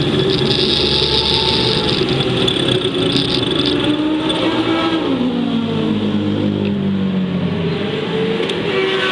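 Racing vehicle engine lapping a circuit, holding high revs, then falling steadily in pitch for a few seconds as it slows, and starting to rise again near the end.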